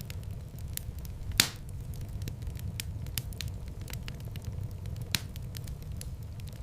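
Wood fire crackling in a fireplace: a steady low rumble of flames with scattered small crackles, and two louder pops, one about a second and a half in and one about five seconds in.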